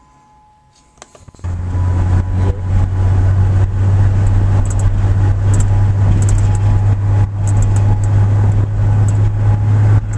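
Faint steady tornado siren tone, then about a second and a half in a couple of clicks and a sudden loud, steady rush of car road and wind noise with a heavy low rumble as the car drives on.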